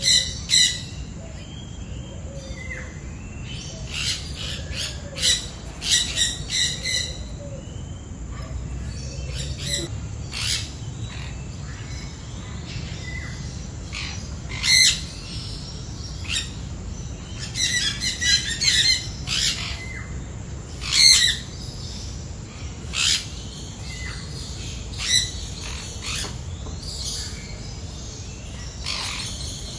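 Birds calling: short, sharp calls repeated in clusters every few seconds.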